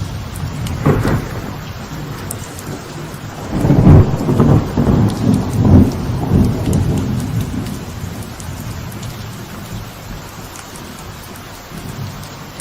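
Light rain falling steadily on a veranda, with a short clap of thunder about a second in. From about three and a half seconds in, a louder roll of thunder rumbles for several seconds and then fades.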